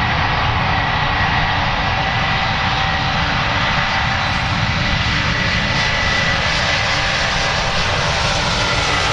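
Large Antonov transport aircraft's engines running loud and steady: a broad roar with a steady high-pitched whine over it.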